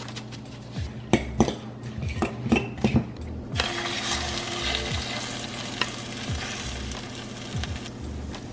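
A utensil stirring shredded cabbage and carrot with egg in a glass bowl, clicking against the glass, then about three and a half seconds in the mixture hits a hot pan and starts sizzling steadily.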